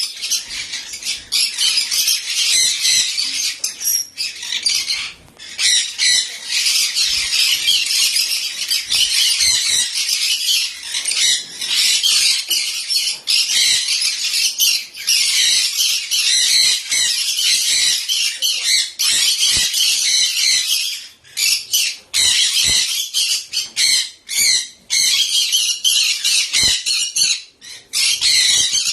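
Baby conure squawking: loud, raspy, high calls in long runs almost without a break, cut by a few short pauses.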